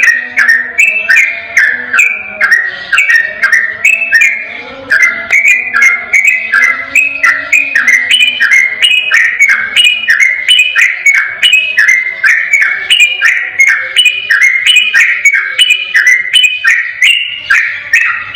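Sooty-headed bulbul singing a rapid, continuous run of clear whistled notes without a break, about three notes a second, the loud rolling 'ropel' song used as a tutor recording to get other bulbuls singing.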